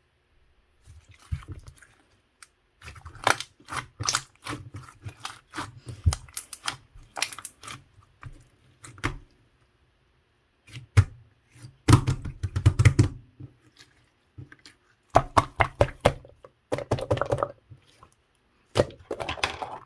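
Slime being squeezed and poked by hand, giving runs of crackling clicks and small pops separated by short pauses, loudest a little past the middle.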